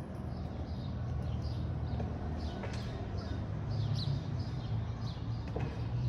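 Birds chirping outside in short, scattered calls, over a steady low rumble.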